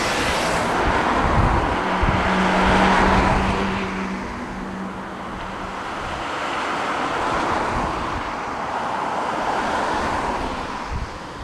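Jet engines of a Boeing wide-body airliner passing close by: a loud rush that swells to a peak about three seconds in, with a steady hum, then slowly eases off.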